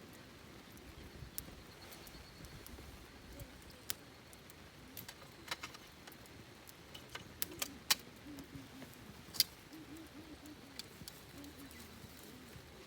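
Wood campfire crackling, with sharp irregular pops.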